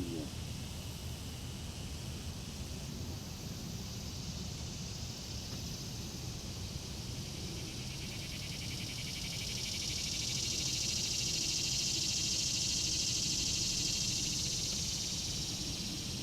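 Buzzing insect chorus with a fine rapid pulse. It swells louder about halfway through and eases near the end, over a low steady rumble.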